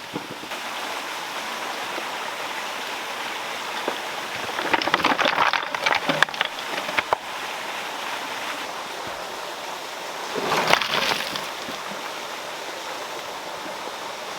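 Water flowing steadily, with two louder spells of splashing and sloshing: a long one about five seconds in with many sharp splashes, and a shorter one near eleven seconds.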